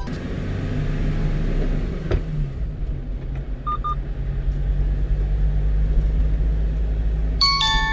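Steady engine and road drone inside the cab of a moving 1-ton truck. There is a click about two seconds in, two short electronic beeps near four seconds, and an electronic chime of several tones near the end.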